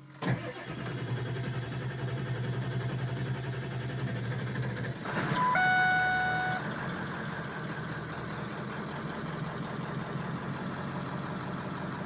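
Truck engine cranking on the starter for about five seconds, then catching and running at idle. A steady electronic beep sounds for about a second as it catches.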